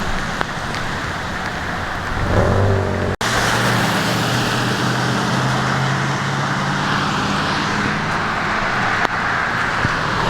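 Steady engine hum over a continuous rush of road-type noise, broken by a brief cut about three seconds in.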